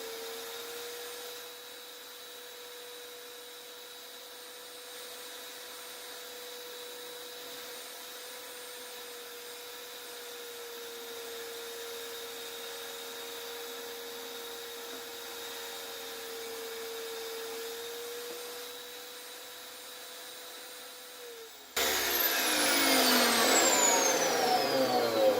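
Budget table saw running with a steady whine. About 22 seconds in it suddenly gets much louder, and its pitch falls steadily as it winds down.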